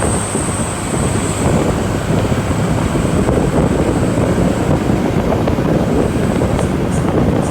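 Motor vehicle on the move: a steady, loud rumble of engine, road and wind noise.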